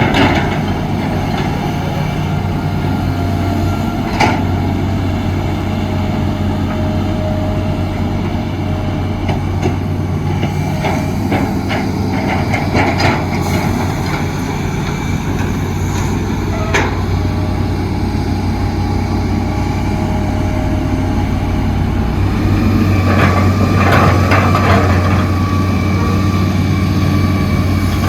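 Heavy diesel construction machinery running steadily, with scattered knocks and rattles and a busier cluster of them a few seconds before the end.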